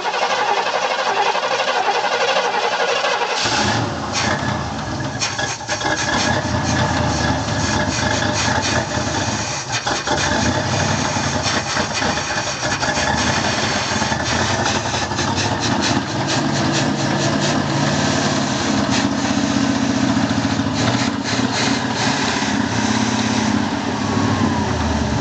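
Oldsmobile Toronado's V8 engine being started: it turns over briefly, catches about three seconds in, and then runs steadily.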